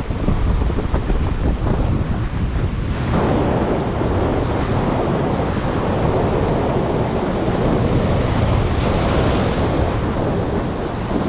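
Strong wind buffeting the microphone over choppy ocean surf breaking below. The wash swells about three seconds in, with a brighter hiss near the end.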